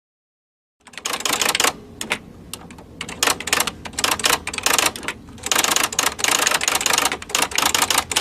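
Typewriter keys clacking in fast runs of strikes with short pauses between them, starting after about a second of silence.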